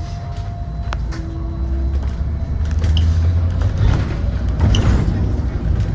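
Inside a moving battery-electric double-deck bus: a low road and drivetrain rumble grows louder, with clicks and rattles from the bodywork, busiest a few seconds in.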